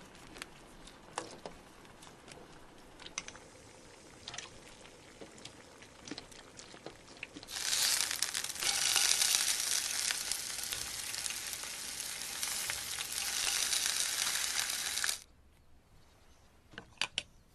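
Napa cabbage leaf frying in oil in a pan: a loud, steady sizzle that starts about halfway through and cuts off suddenly. Before it, faint kitchen handling with scattered small clicks; near the end, a few light clicks.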